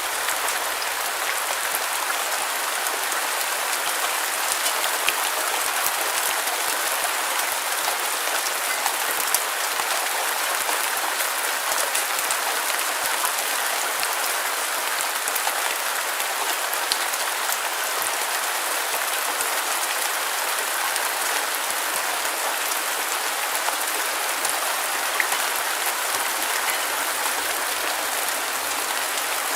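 Steady rain falling on a surface, an even hiss with scattered small drop ticks and no thunder.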